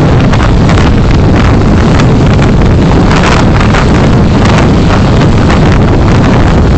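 Steady, loud rumble of a car driving, with road and wind noise on the dashcam's microphone.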